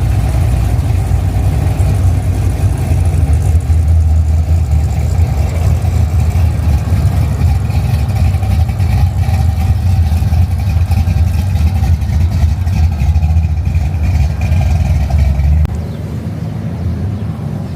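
A vehicle engine running steadily with a deep low rumble, which falls away sharply about sixteen seconds in.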